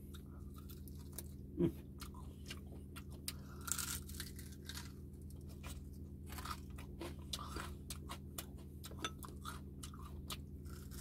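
Close-up chewing of crispy pata (deep-fried pork leg), the crisp skin crunching in irregular crackles between bites.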